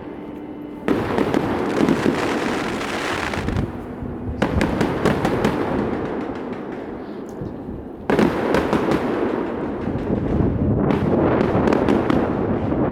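Aerial fireworks shells bursting with booms and dense crackling. A fresh loud burst comes about a second in, another around four and a half seconds, and another about eight seconds in.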